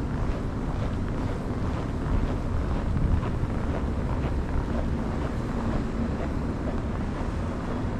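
Wind buffeting the microphone in a snowstorm: a steady low rumble.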